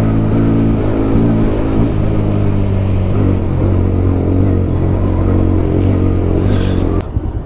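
Bajaj Pulsar NS160's single-cylinder engine running steadily under way, then cutting out abruptly about seven seconds in as it runs out of fuel on the last of a one-litre mileage test.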